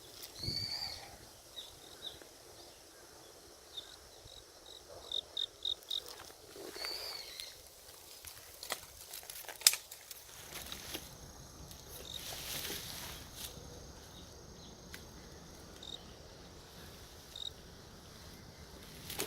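Quiet forest ambience with short high chirps, a quick run of about five chirps some five seconds in, two rising-and-falling whistles, and scattered sharp clicks, the loudest near ten seconds in.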